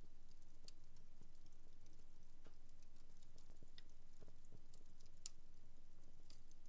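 Wood fire burning in a fireplace, crackling faintly with irregular small pops and snaps.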